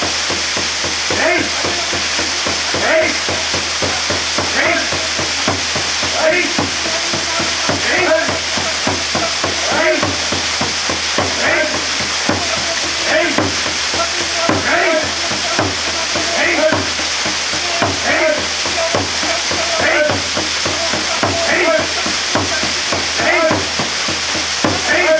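Waterfall water pouring down in a steady, even rush, with a short sound repeating about every second and a half to two seconds.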